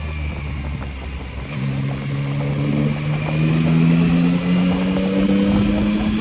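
Yamaha MT-09's three-cylinder engine accelerating: about a second and a half in the pitch jumps up, then climbs steadily as the bike pulls through a gear.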